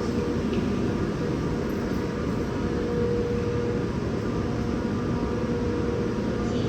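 Steady rumble and hum inside a CRRC Qingdao Sifang Type A metro train car, with a faint held tone over the low noise.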